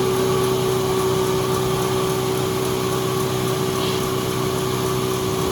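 Sawmill machinery running steadily, a constant hum with one strong steady tone and no cutting strokes or changes in speed.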